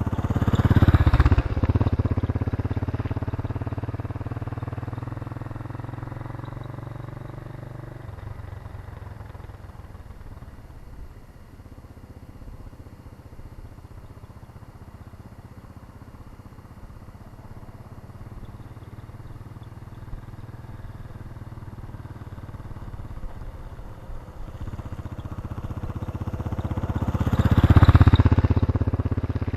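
Irbis Garpia 250 motorcycle's 250 cc single-cylinder engine and exhaust heard from the roadside as the bike passes close about a second in, its note dropping as it rides off, then approaching and passing again near the end.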